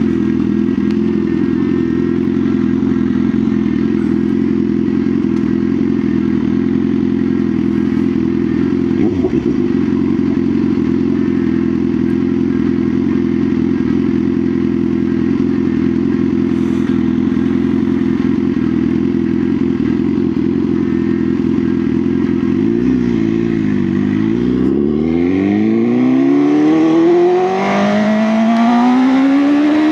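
BMW S1000R's inline-four engine running at a steady note, then about twenty-two seconds in the pitch dips and climbs steeply as the bike accelerates, with a brief break about two seconds before the end as it shifts up.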